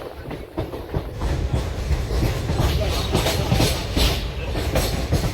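Train running along the track: a steady low rumble with the wheels clattering over the rail joints, growing louder about a second in.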